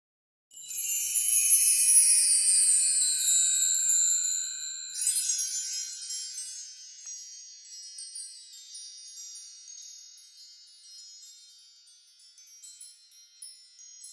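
High metallic chimes shimmering in a bright wash for about four seconds, then breaking into scattered tinkles that fade away.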